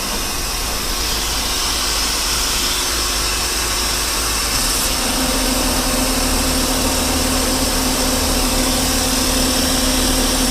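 Metal lathe taking a roughing cut on a steel shaft with a carbide insert, running steadily under mist coolant hiss. A steady hum comes in about five seconds in and holds. The cut is running smoother now that the tool is through the rusty outer crust.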